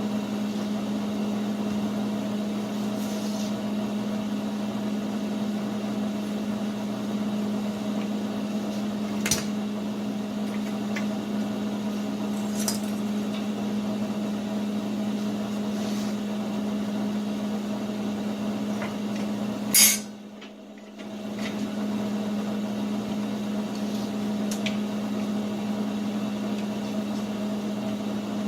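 Steady machine hum with a low tone over a hiss, with a few light metallic clinks and one sharp click about twenty seconds in.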